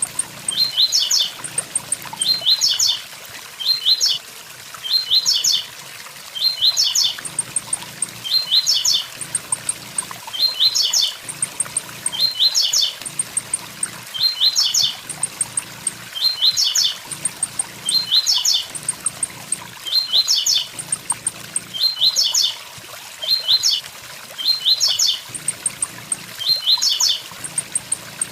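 Blue-black grassquit (tiziu) singing its short 'tui tui zel zel' song again and again, about one sharp phrase every second and a half, over the steady rush of a waterfall.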